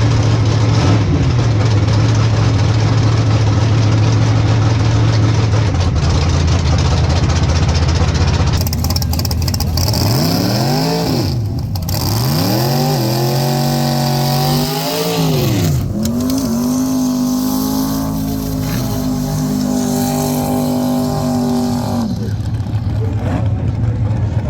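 Drag race car engine idling steadily, then blipped three times in quick rising-and-falling revs, then held at higher steady revs for several seconds before dropping back to idle near the end.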